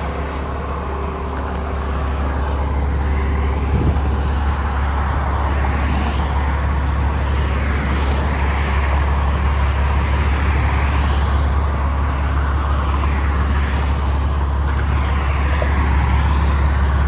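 Expressway traffic passing at speed, one vehicle swelling and fading after another, over a steady low rumble. A single knock sounds about four seconds in.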